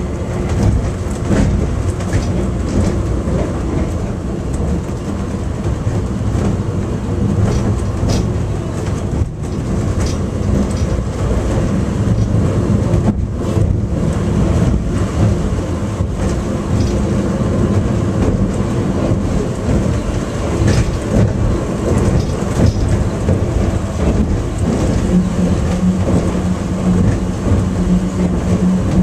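Small airport subway train running between stations, a steady rumble and rattle with a few light clicks. A low steady hum comes in near the end.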